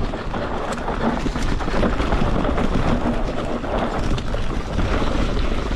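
Electric mountain bike riding down a dirt trail: a steady rush of wind over the microphone mixed with tyre noise and the bike rattling over rough ground.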